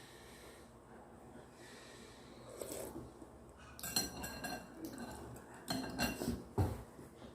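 Eating utensils clinking and knocking against a bowl while eating spicy instant ramen. One strike about four seconds in rings on briefly, followed by a cluster of knocks around six seconds in.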